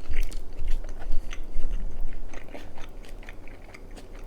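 Close-miked chewing of a mouthful of keto-crust pizza: a run of short wet clicks and smacks that grow quieter toward the end.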